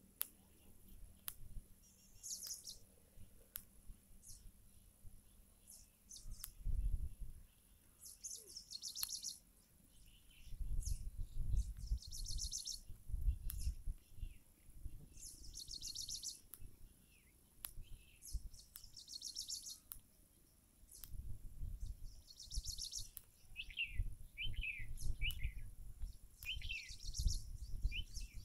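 Birds calling: high, fast trills about a second long, repeated every two to three seconds, with short falling chirps near the end. Under them are low rumbles that come and go and scattered faint clicks.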